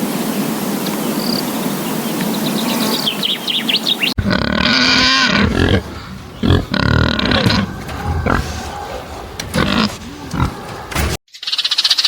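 A large animal growling and roaring in loud, irregular calls and grunts for about seven seconds, between two abrupt cuts. Before it comes a steady outdoor ambience with insect chirps, and near the end a frog chorus with fast, even pulsing cuts in.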